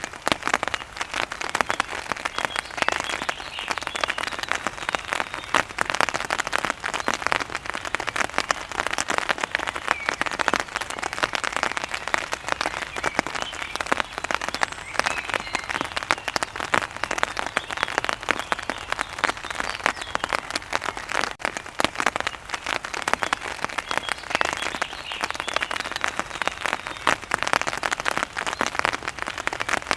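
Steady heavy rain: a dense, even patter of countless drops hitting a surface.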